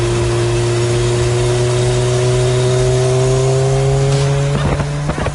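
Motorcycle engine held at high revs, its pitch creeping slowly upward, then changing abruptly with a few sharp knocks near the end.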